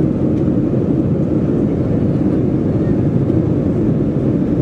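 Boeing 737-400 cabin noise heard from an economy seat during the climb: a loud, steady low rumble of the engines and airflow with no changes.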